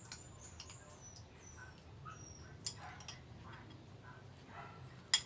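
Eating sounds: scattered sharp clicks of utensils on dishware, the loudest just before the end, with short, thin, high squeaks that dip slightly in pitch, heard faintly over a low steady hum.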